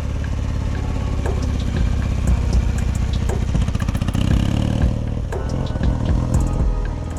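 1983 Honda Nighthawk motorcycle engine running on a test ride, with the engine note shifting in pitch about four to five seconds in as the revs change.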